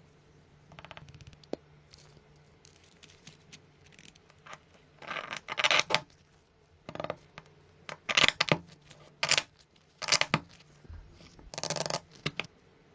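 Hand work on small parts: light clicks and taps, then from about five seconds in a run of about six short scraping or cutting strokes, each under a second.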